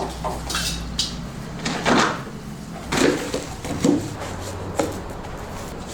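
A series of about five knocks and clunks, roughly a second apart, over a steady low hum.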